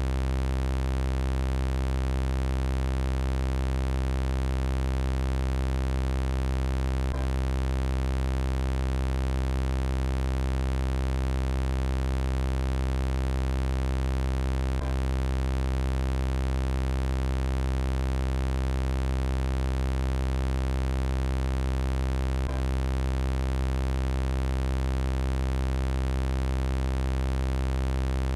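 Steady synthesized electronic drone: a low, buzzing hum with many evenly spaced overtones, unchanging in pitch, looped so that a faint click marks the seam about every seven to eight seconds.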